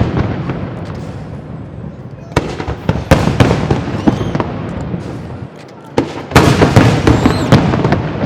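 Aerial fireworks bursting in two volleys of sharp cracks and booms, one about two and a half seconds in and a denser one about six seconds in, with a rumbling echo between them.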